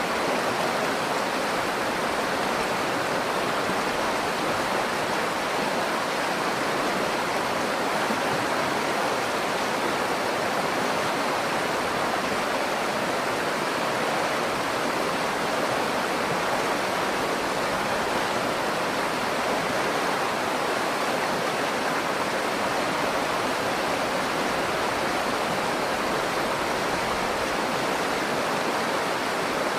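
The Nakdong River flowing: a steady, even rush of moving water, unchanging throughout.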